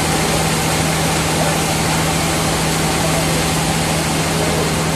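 Sawmill machinery running steadily, a constant hum with a steady low tone under a broad noise.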